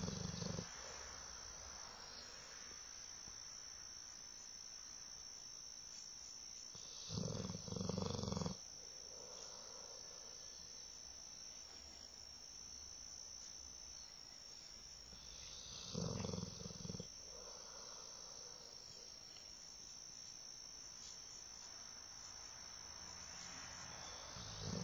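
Dog snoring in its sleep: a low snore of about a second, repeating every eight to nine seconds, with a softer breath after some, over a steady high-pitched tone.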